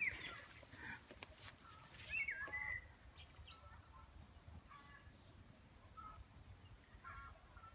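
Small birds calling in short, scattered chirps and whistles. The loudest is a wavering whistled phrase about two seconds in, with a faint low rumble underneath.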